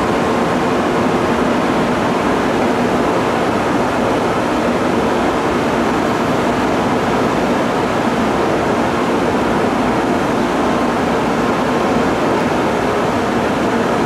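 Steady rushing noise of N700-series Shinkansen trains running through the station, even in level with no rise or fall.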